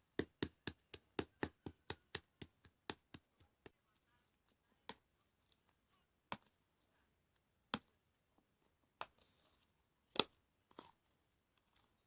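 Fluffy slime being worked by hand, giving sharp popping clicks: a quick run of about four a second for the first few seconds, then scattered single pops.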